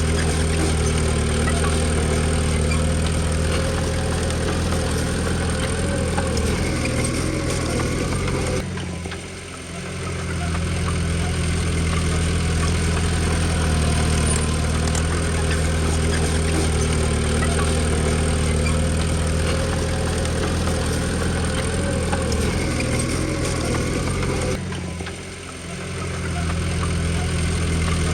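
Diesel engine of a Komatsu D20P bulldozer running steadily, with two brief dips in loudness about a third of the way in and near the end.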